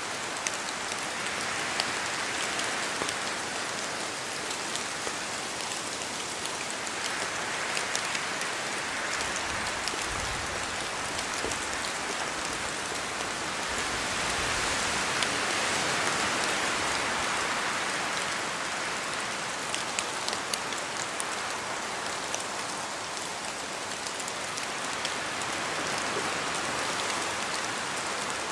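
Steady rain in a forest, with scattered close drops falling from the trees. The hiss swells and eases every several seconds as the wind gusts.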